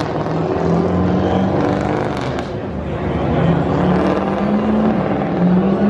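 Drift cars' engines revving on the circuit, the engine note rising and falling, with a slight dip about halfway through.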